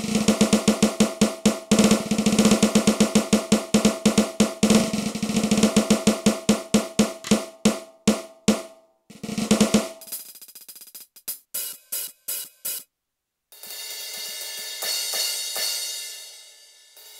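Roland TD-8 electronic drum module played from a kit: rapid snare strokes and rolls for about ten seconds, then a few scattered hits, a brief stop, and ringing cymbal and hi-hat sounds near the end.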